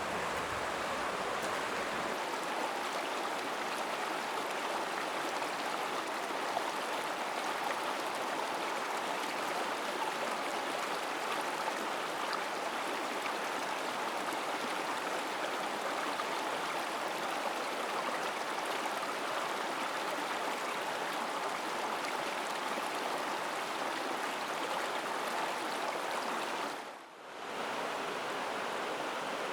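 Mountain stream flowing over rocks: a steady rushing of water that dips briefly near the end.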